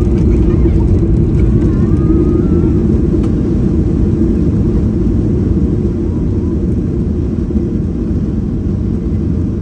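Steady low rumble of a Boeing 737 MAX 8-200's CFM LEAP-1B jet engines after landing, fading slightly.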